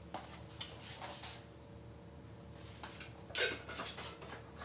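Kitchen utensils and containers clinking and rattling in short bursts while seasonings are measured out, loudest about three and a half seconds in.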